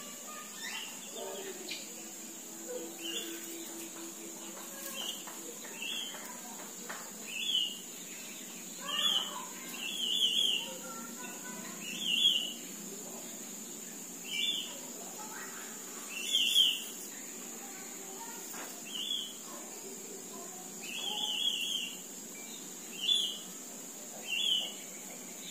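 A small bird chirping over and over, each call a quick run of a few high notes, coming every second or two and louder in the second half. A steady high-pitched hiss runs underneath.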